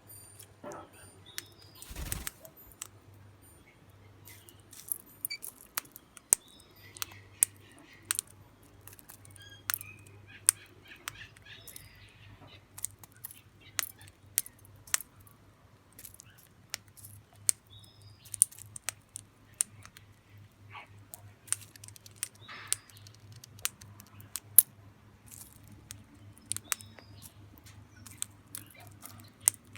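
Small birds fluttering and flapping their wings, with many sharp, irregular clicks and taps and a few brief chirps. A low steady hum runs underneath.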